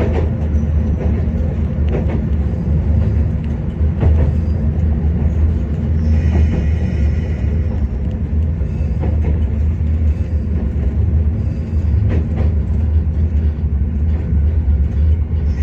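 Diesel railcar running along the line with a steady low rumble, its wheels knocking over rail joints a few times.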